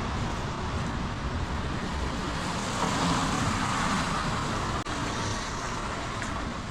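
Heavy rain falling steadily, with the hiss of a car's tyres on the wet road swelling and fading through the middle.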